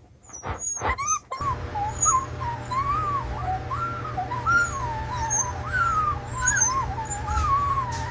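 Dog whining in one long, wavering, high-pitched whine that starts about a second in, over a steady low hum: the sound of a frightened, overwhelmed dog.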